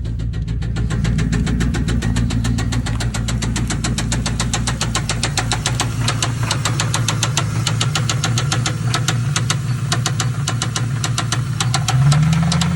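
Lincoln Town Car's V8 idling, with a fast, regular ticking over the engine note. Near the end the engine speed steps up briefly.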